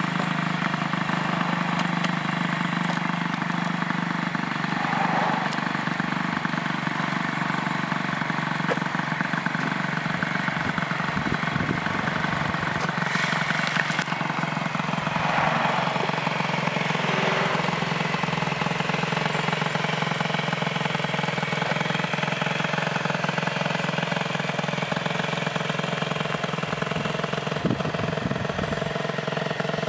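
Gilera DNA50 moped's 50cc two-stroke single-cylinder engine idling steadily, with no revving.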